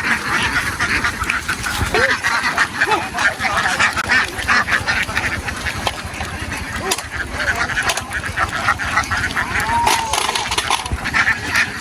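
A large flock of domestic ducks quacking continuously, many calls overlapping into a dense, unbroken chatter.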